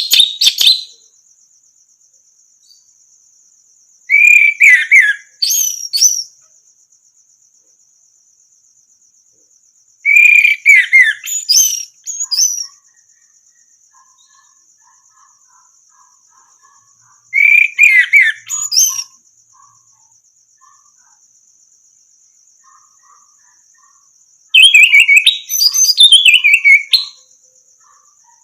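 Orange-headed thrush singing: five short phrases of quick, descending whistled notes, about six seconds apart. A steady, high, pulsing insect trill runs underneath.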